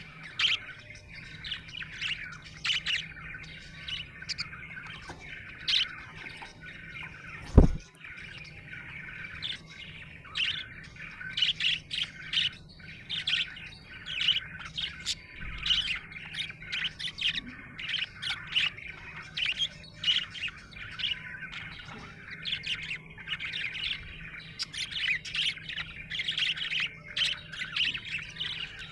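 Budgerigar chirping: a continuous stream of short, rapid, high chirps. A single loud low thump cuts in about eight seconds in, over a faint steady low hum.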